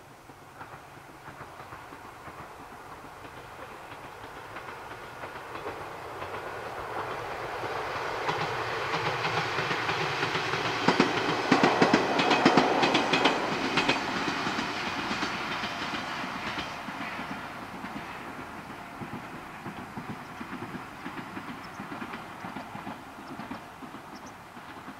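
Ichibata Electric Railway two-car electric train passing, its sound building as it approaches. Near the middle it is loudest, with a quick run of clacks from the wheels over the rail joints, and it then fades away as the train recedes.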